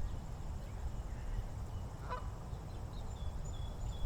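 A goose gives a single short honk about two seconds in, over a steady low rumble, with faint high bird chirps in the second half.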